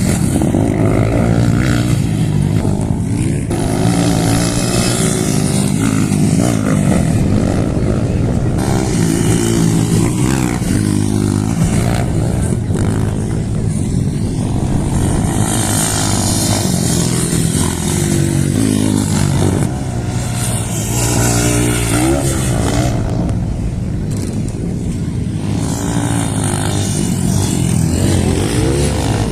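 Motorcycle engines running loud and revving, their pitch rising and falling again and again.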